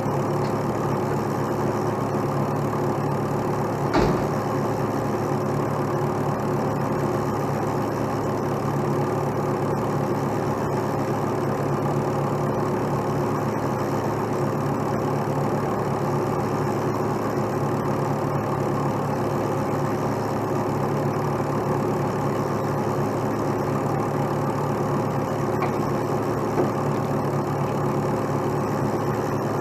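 Heavy truck diesel engine idling steadily, with a single sharp metallic knock about four seconds in.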